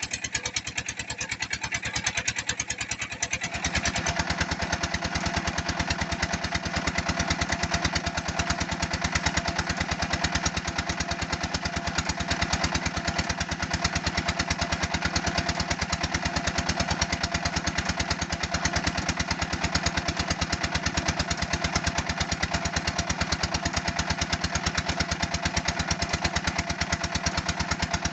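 Engine of a red-brick press machine running steadily with a fast, even beat. About three and a half seconds in its sound grows deeper and a little louder, as when the machine takes up load.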